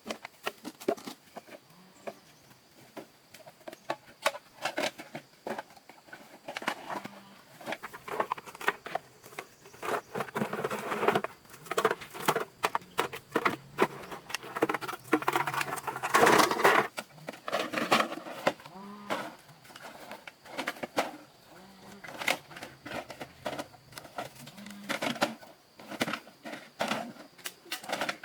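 Irregular clicks, taps and knocks of hard objects, densest and loudest about halfway through.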